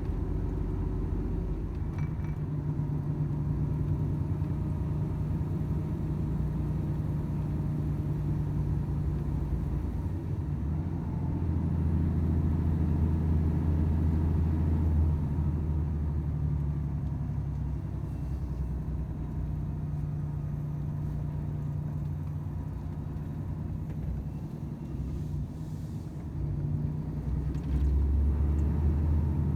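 Volvo FH 500 truck's diesel engine running with road noise: a steady low drone whose pitch shifts a few times as the truck drives on.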